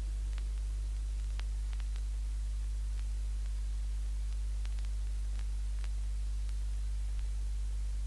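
Playback noise after the music has ended: a steady low hum under an even hiss, with a few faint scattered clicks.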